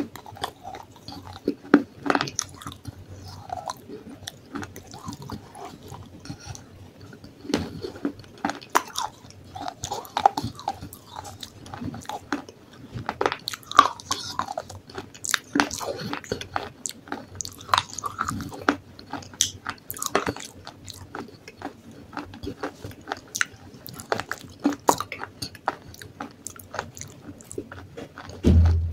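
Close-up crunching and chewing of dry baked clay-pot pieces, with sharp irregular bites and crunches throughout. A dull thump comes near the end.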